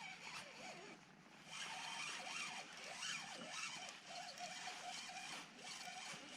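Faint whirring of a spinning reel being cranked as a fish is played.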